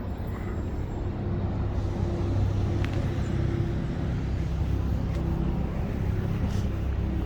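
Steady low rumble of motor traffic, vehicle engines running.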